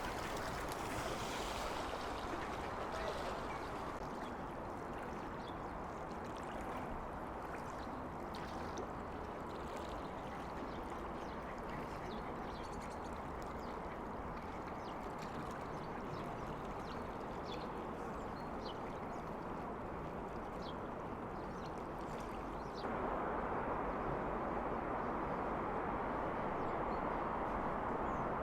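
Steady roar of heavy traffic from a big city avenue, with ducks quacking faintly here and there. The roar gets suddenly louder near the end.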